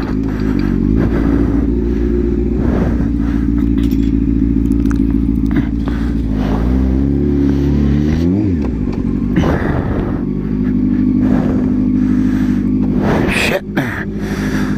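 Honda CBR600 F4i motorcycle's inline-four engine through a short aftermarket exhaust, running steadily under way. About six and a half seconds in it revs up, drops back sharply at a gear change, and then settles to a steady pitch again.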